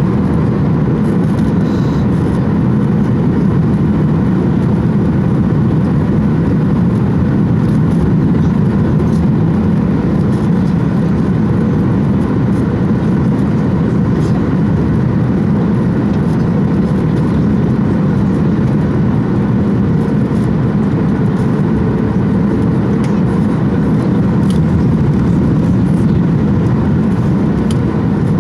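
Steady low rumble of a Boeing 737-800 airliner heard from inside the passenger cabin: the jet engines and the airframe on the ground after landing, with a faint steady tone joining in about two-thirds of the way through.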